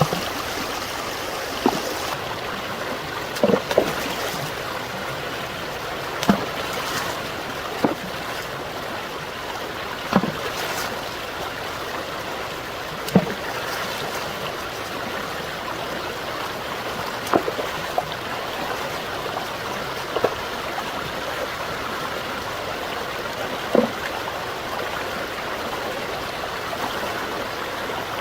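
Stream water running steadily, with a short, sharp splash or knock roughly every two to four seconds.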